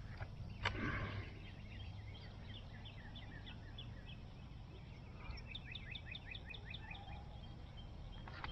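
A songbird calling: a fast run of short, high chirps, about four to six a second, growing denser in the second half, over a low steady background noise. A brief knock sounds just under a second in.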